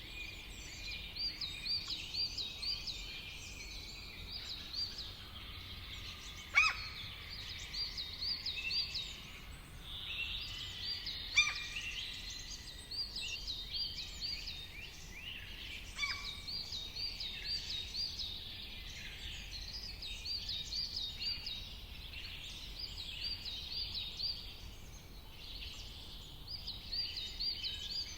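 Several songbirds singing and chirping, with quick repeated phrases overlapping throughout. Three louder, sharp calls that drop quickly in pitch stand out at about 6.5, 11.5 and 16 seconds in.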